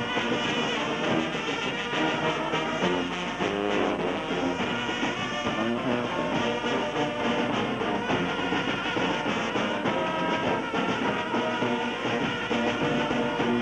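Music played by brass instruments, going on without a break at an even level.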